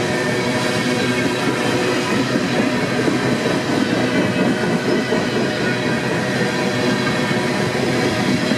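Freight train rolling past, with a steady, loud noise of wheels on rail.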